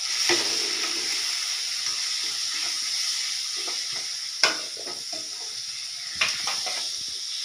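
Spice paste sizzling in hot oil in a stainless-steel kadai as it is stirred with a metal spatula. Steady frying hiss, with a few sharp clanks of the spatula against the pan, the loudest about four seconds in.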